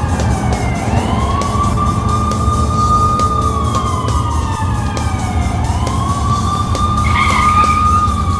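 Emergency-vehicle siren wailing: each rise is quick and each fall slow, in long cycles, over a low engine rumble.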